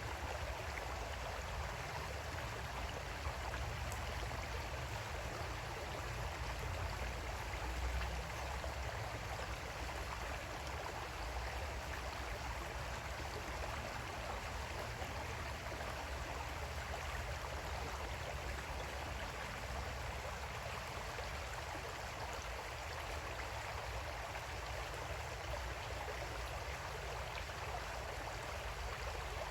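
Creek water flowing steadily over rocks: an even rushing with a low rumble underneath.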